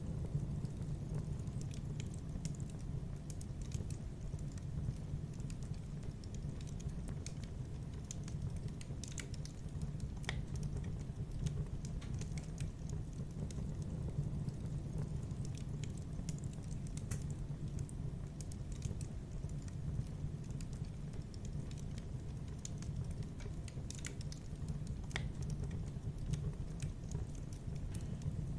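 Fireplace fire crackling: irregular sharp snaps and pops, a few louder than the rest, over a steady low rumble of the burning.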